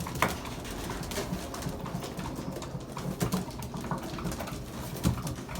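Racing pigeons cooing in the loft, with low coos going on throughout and many small scattered clicks and taps.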